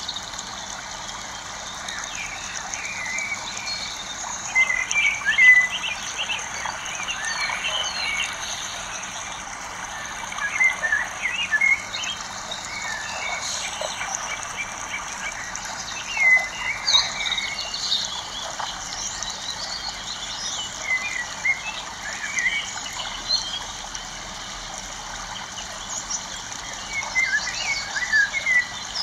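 Birds chirping in short, scattered calls over a steady outdoor hiss.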